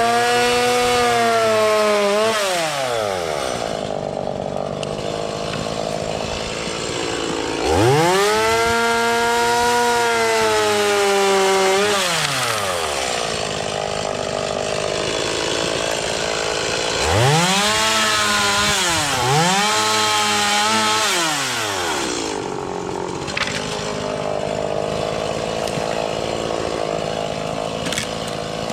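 Chainsaw bucking a felled green ash trunk: it revs up to full speed and holds through a cut, then falls back to idle, four times, the last two close together. It idles for the last several seconds.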